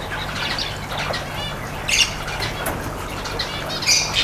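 Cockatiel giving a series of short chirping and squawking calls, several separate calls spread through a few seconds.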